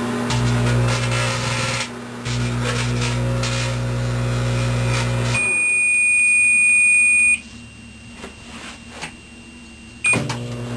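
Microwave oven running with a steady low electrical hum, which stops about five seconds in. A loud, high, steady beep then sounds for about two seconds as the cycle ends. After a quieter stretch, a short beep sounds near the end and the microwave's hum starts again.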